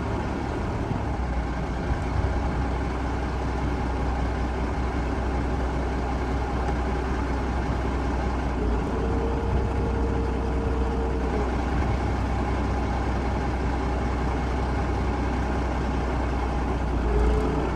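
Dump truck engine idling steadily with a low, even hum. About halfway through, a steady higher-pitched whine joins for a couple of seconds, and another starts near the end.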